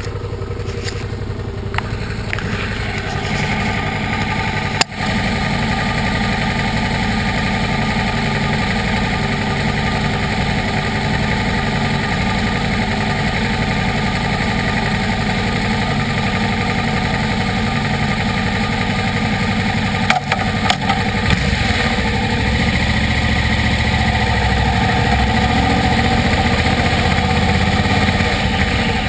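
Motorcycle engine running steadily on the move, building up over the first few seconds, with brief sharp clicks about five seconds in and again about twenty seconds in.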